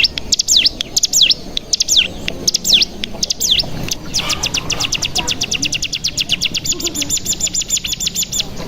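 Ciblek gunung songbird singing: a series of sharp, high downslurred calls, then about four seconds in a long rapid 'bren' trill of about ten notes a second that carries on steadily.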